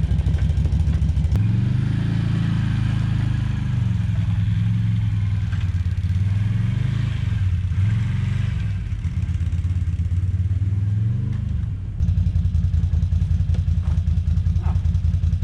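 ATV engine running, its pitch rising and falling with the throttle, then settling to a steady, even idle about twelve seconds in.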